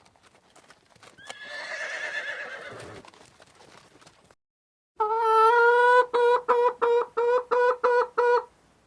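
A horse whinnying: a wavering call that falls in pitch. After a short silence comes a second pitched call, held steady for about a second and then broken into a run of short pulses, about three a second.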